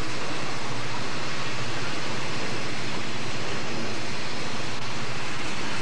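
Southern Pacific freight cars rolling past, a steady rushing rumble of steel wheels on rail.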